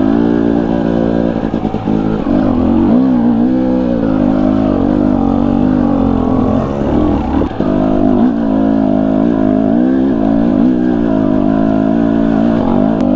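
Husqvarna TE250i two-stroke dirt bike engine revving up and down again and again under load as it climbs steep, loose trail, its pitch rising and falling with the throttle and clutch.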